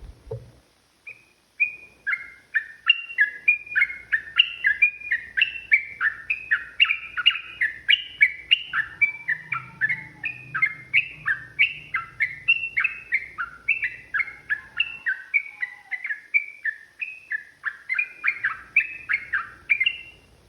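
Yellow-vented bulbul (trucukan) singing a long unbroken run of quick bubbling notes, about three a second, starting about a second and a half in. A short click comes right at the start.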